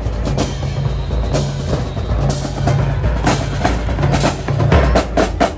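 High school marching band drumline playing a loud percussion cadence: snare strikes over steady bass-drum beats.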